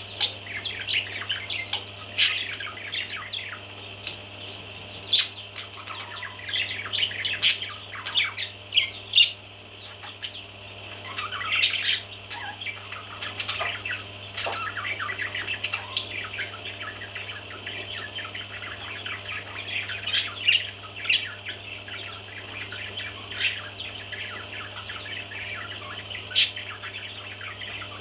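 Baby parrots chirping continuously in many overlapping high calls, with a few sharp clicks and a steady low hum underneath.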